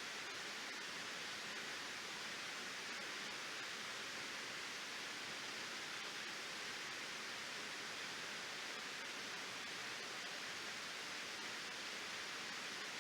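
Waterfall: water pouring over the falls, a steady even rush with no change.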